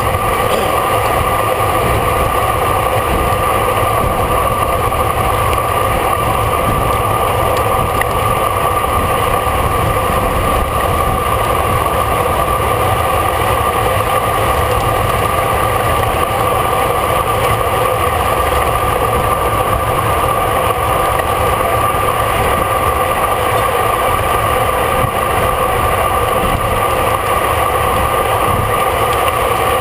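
Steady rushing wind and tyre noise of a road bicycle riding at race speed, unbroken throughout with a constant hum.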